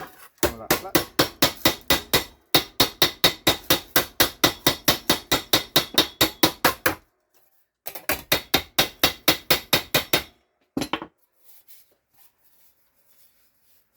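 A hammer striking a sheet-steel car repair panel clamped in a vise, knocking a crease (swage) into it. The blows come in two fast, even runs of about five a second, broken by a short pause about seven seconds in, and a last couple of knocks follow about eleven seconds in.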